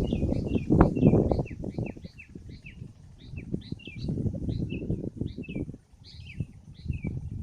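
Wind buffeting the microphone in gusts, loudest about a second in, with a small bird chirping in a quick, steady series of short notes over it.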